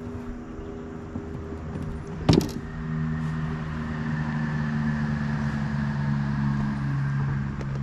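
A motor humming steadily, growing stronger about three seconds in, with one sharp knock a little after two seconds.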